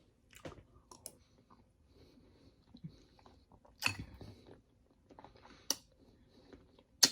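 A person chewing a mouthful of berries and pomegranate seeds in coconut water: wet, crunchy mouth sounds with scattered small clicks. A few sharper clicks stand out, the sharpest near the end.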